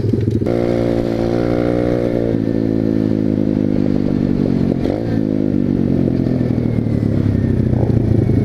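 Pit bike engines running while riding along the road, a steady engine note throughout. A second, higher engine note is heard for about two seconds near the start, and the note dips and bends briefly about five seconds in.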